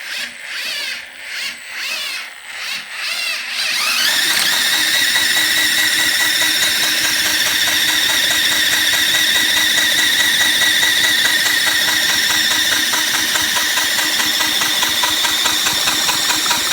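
Power drill turning the overhead camshaft of a 1992 Kawasaki Estrella cylinder head, working the intake and exhaust valves: short pulsed bursts about twice a second for the first four seconds, then it spins up in a rising whine and runs steadily at speed.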